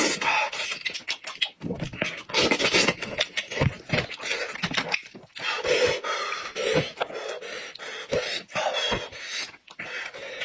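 Close-miked eating sounds of someone chewing goat's head meat: irregular wet smacks and clicks of the mouth with heavy breathing through the nose.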